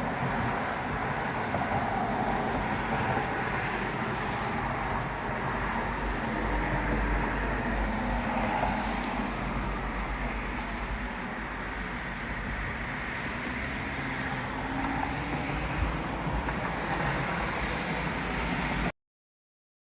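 Strong storm wind gusting and buffeting the microphone, a steady rushing noise with deep rumbling surges, which cuts off suddenly near the end.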